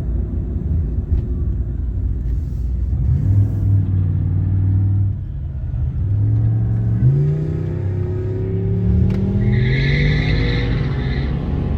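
Vehicle engine pulling through the gears. The pitch drops at a shift about five seconds in, then rises as it accelerates, with another step about nine seconds in. A short high steady tone sounds near the end.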